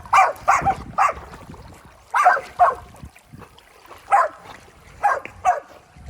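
A dog barking in short, high yips, mostly in pairs, about nine in all.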